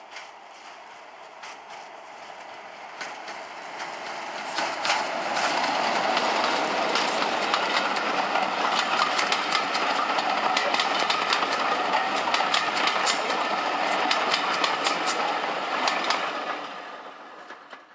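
Diesel-hauled heritage passenger train passing close by, the locomotive followed by a long rake of coaches. The wheels clatter over the rail joints in quick clicks. The sound builds over the first few seconds, holds loud and steady while the coaches pass, then dies away quickly near the end.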